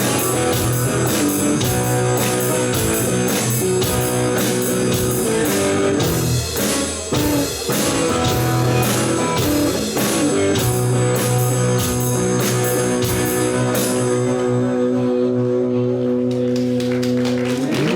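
Live rock band, guitar and drum kit, playing an instrumental passage with a steady drum beat; near the end the drums stop and the band holds a final chord that rings on.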